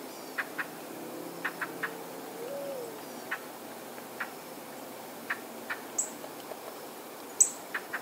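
Woodland birds calling: scattered short, sharp chip notes over a steady hiss, with the loudest a high, sharp note near the end.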